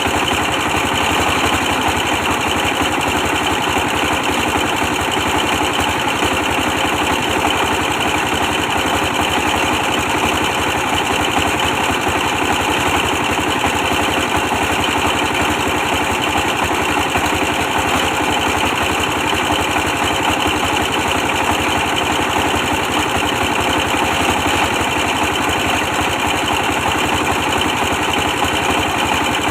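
A 24 hp diesel engine running steadily at a constant speed, powering a brick press.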